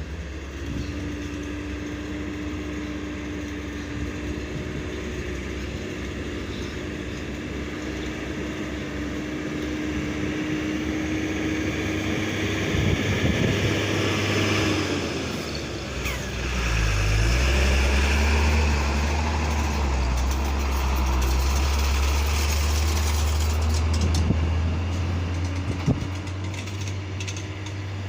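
Hino cargo truck's diesel engine running under way, a steady note for the first half that dips in pitch about sixteen seconds in, then comes back as a louder, deeper drone.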